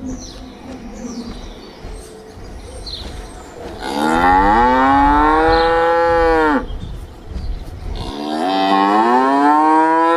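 Cow mooing: two long moos, the first starting about four seconds in and lasting nearly three seconds, the second starting about eight seconds in and still going at the end.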